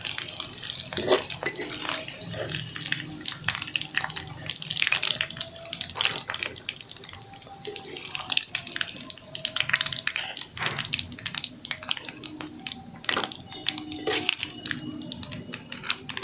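Heavy rain falling and splashing steadily, dotted with many sharp irregular drop impacts and crackles.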